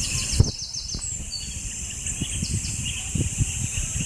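Small birds chirping: a quick run of about five short, high, downward-sliding chirps at the start and a few more about halfway through, over a steady high-pitched insect buzz.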